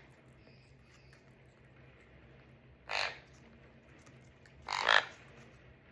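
Conure parrot giving two short, raspy calls, about three seconds in and again near five seconds.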